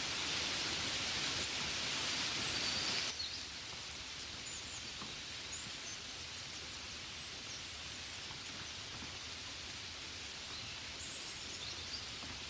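Steady rain falling, an even hiss that drops suddenly to a softer patter about three seconds in. A few faint, short high chirps come through over the softer rain.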